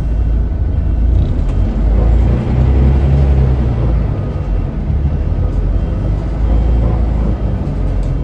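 Scania L94UB city bus engine running as the bus drives, a loud low rumble that swells briefly about two to three seconds in.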